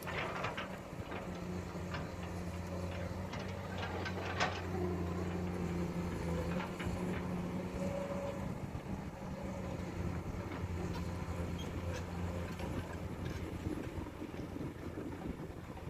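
Diesel engine of a Komatsu PC200 hydraulic excavator running at a steady drone while it works, with a few sharp knocks, the loudest about four seconds in.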